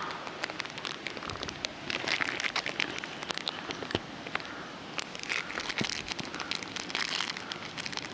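Small twig fire crackling in a Firebox Nano folding stove, with irregular sharp pops and snaps over a soft hiss.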